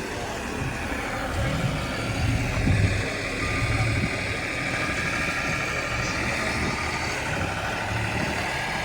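Triumph TR6's 2.5-litre straight-six engine running at low revs close by, a little louder about two to three seconds in.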